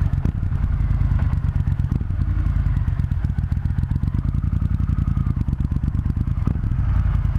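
Triumph Thunderbird Storm's parallel-twin engine running steadily at low revs, a deep, even pulsing.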